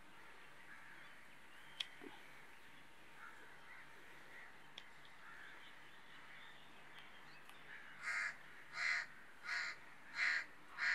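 A bird calling five times in quick succession near the end, the calls evenly spaced about two-thirds of a second apart. Before that there is only faint open-air background.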